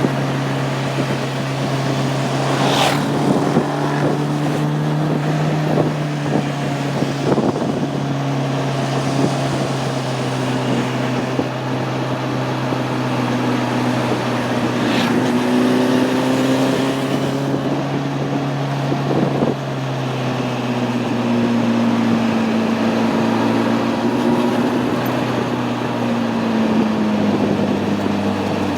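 Honda CB600F Hornet's inline-four engine running at a fairly steady cruising speed, heard onboard with wind on the microphone. Its pitch eases down near the end as the bike slows.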